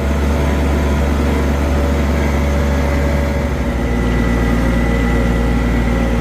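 John Deere 1023E compact tractor's three-cylinder diesel engine running steadily. A thin, high whine comes in about four seconds in.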